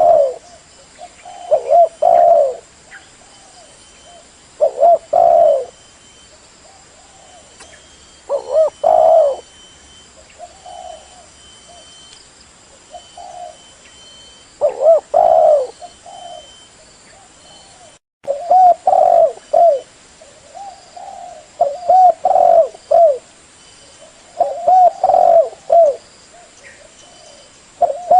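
Spotted dove (tekukur) cooing, its short phrases repeated every few seconds, with a momentary cut in the sound about two-thirds of the way through.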